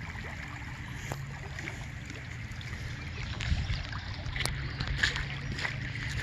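Floodwater rushing through an overflowing creek, with a steady low rumble on the microphone and a few sharp clicks.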